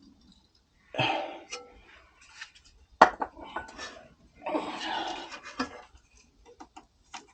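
Metal tools and parts clinking and clattering during suspension work, with one sharp metallic clank about three seconds in.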